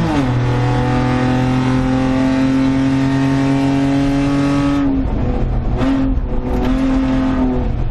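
Suzuki Carry kei truck's 660 cc three-cylinder engine racing on track. It makes a quick upshift right at the start, pulls hard with the pitch slowly climbing, then comes off the throttle about five seconds in, followed by two short bursts of throttle.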